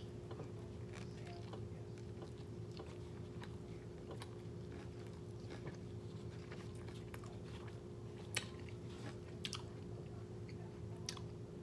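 A person chewing a mouthful of a soft tortilla wrap of rice and eggs close to the microphone: scattered soft wet mouth clicks, a few sharper ones later on, over a faint steady hum.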